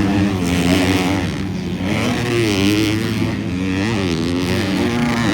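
250-class motocross bikes racing on the track, their engines revving up and down again and again as the riders work the throttle through the section.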